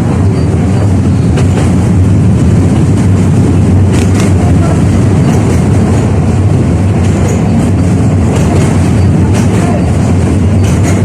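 71-605A (KTM-5A) tram running along the track, heard on board: a steady low rumble of wheels and running gear, with a few sharp knocks as the wheels cross rail joints.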